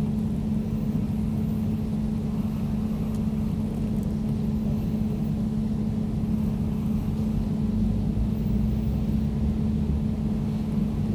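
Air conditioner running steadily: a constant low hum with a steady tone.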